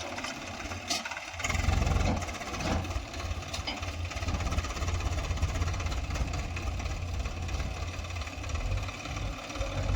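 Diesel engine of heavy earthmoving machinery running, growing louder and heavier about a second and a half in, with a few faint clanks.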